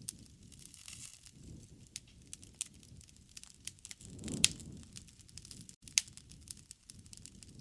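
Wood campfire crackling, with many small sharp pops over a low rush of burning. The flames swell briefly about four and a half seconds in, with the loudest pop, and there is another strong pop about a second later.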